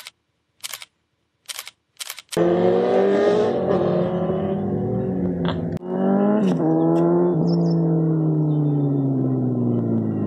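Four short camera-shutter clicks over near silence, then a sport motorcycle engine revving hard through several quick upshifts, its pitch falling away in a long glide near the end.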